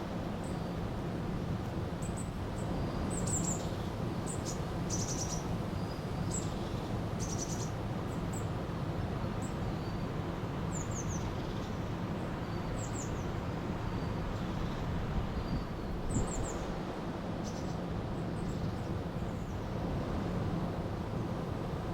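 A river flowing steadily, with small birds giving short, high chirps every second or two over the water's rush, some of them quick falling notes.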